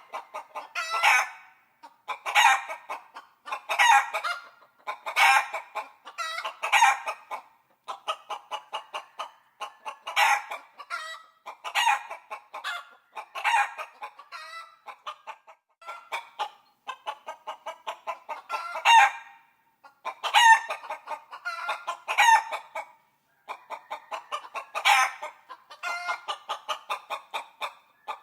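Chicken clucking: quick runs of short clucks, each ending in a louder drawn-out squawk, repeated over and over with a couple of brief pauses. The sound is thin, with no low end.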